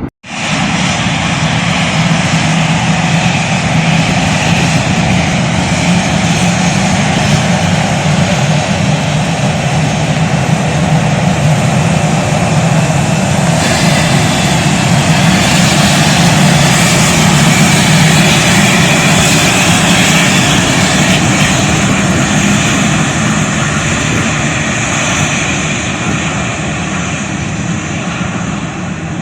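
Airliner engines running loud and steady at close range, starting abruptly, swelling to their loudest about two-thirds of the way through and easing slightly near the end.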